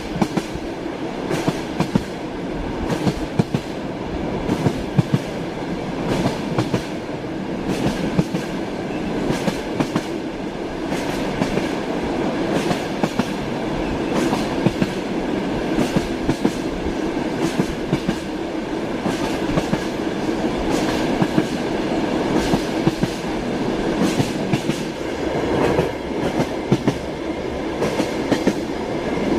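Train wheels rolling over rail joints: a steady rumble with repeated clickety-clack knocks, as heard riding in a railway carriage.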